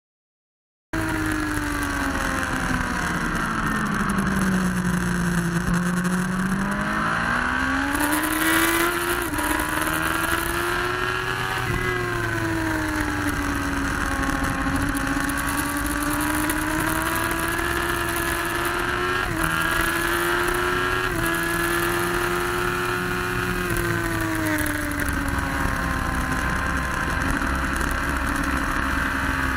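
Motorcycle engine at high revs heard from an onboard camera at track speed, its pitch sinking and climbing as the rider rolls off and opens the throttle through the corners, over steady wind rush. The sound starts about a second in, and there is a short loud gust of wind noise about eight seconds in.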